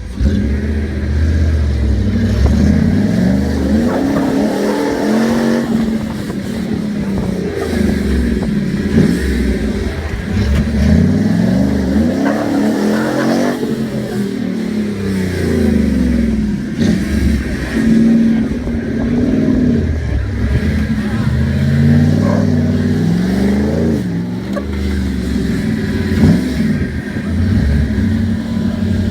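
Jeep J-series full-size pickup's engine revving up and down again and again as the truck crawls through a steep slickrock obstacle.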